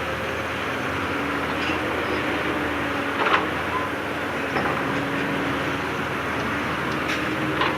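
Heavy diesel earthmoving machinery running steadily at work, with a few sharp metallic clanks, the loudest about three seconds in.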